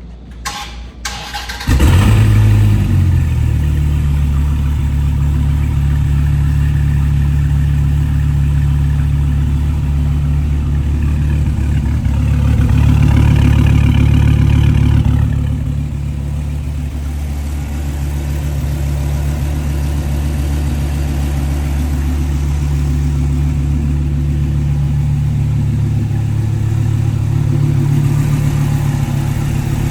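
2017 Dodge Viper ACR Extreme's 8.4-litre V10 cold-starting: brief cranking, then it catches about two seconds in with a loud flare. It settles into a steady fast cold idle, which rises a little a few seconds later and then drops to a lower idle.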